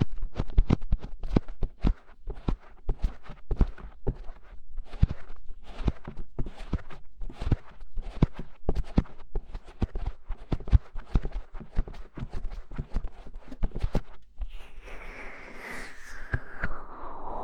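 ASMR ear-scratching and ear-covering sounds on a microphone's ears: quick, irregular scratches and taps. Near the end they give way to a rubbing sound that slides down in pitch.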